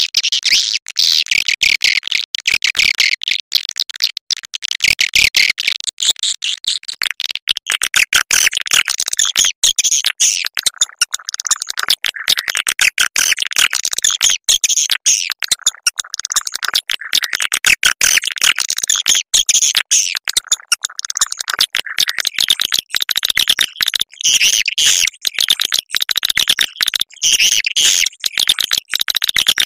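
Swiftlets twittering in a dense, unbroken stream of rapid high chirps and clicks: a swiftlet lure-call recording of the kind played to draw the birds into a nesting house.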